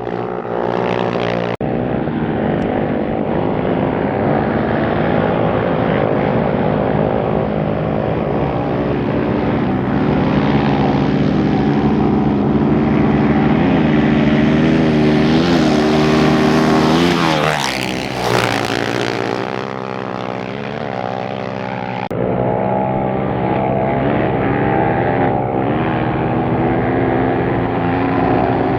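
Off-road racing motorcycle engines running hard at speed, the engine note swelling to a loud pass about two-thirds of the way in, then dropping quickly in pitch. The sound jumps abruptly twice.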